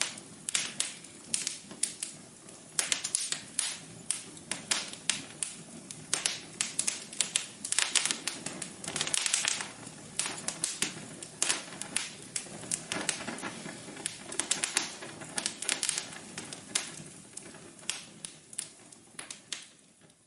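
Wood fire crackling in a fireplace: a dense run of irregular sharp pops and snaps over a soft low rush, dying away at the very end.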